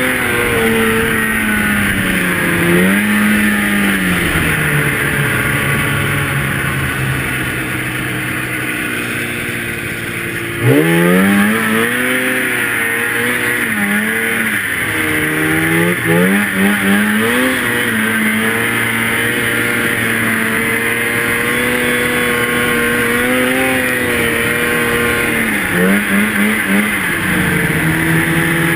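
Two-stroke snowmobile engine running under throttle, its pitch sagging and climbing as the throttle is worked. A sharp rev about a third of the way in, and quick stabs of throttle near the middle and again near the end.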